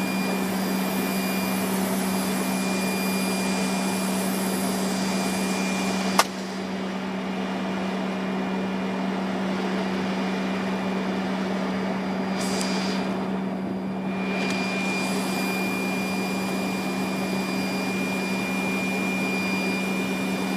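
Steady flight-deck noise of a Fokker 100 airliner on approach: a constant rush of air and machinery with a steady low hum and a thin high whine. A single sharp click comes about six seconds in, after which the highest hiss is duller for several seconds.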